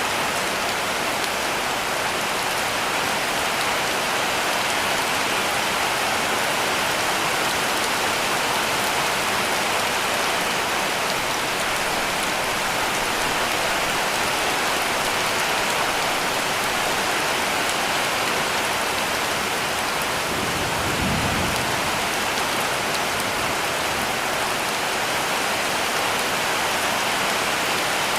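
Heavy rain falling steadily on a cabin roof, an even dense hiss with no let-up. A brief low rumble swells and fades about three-quarters of the way through.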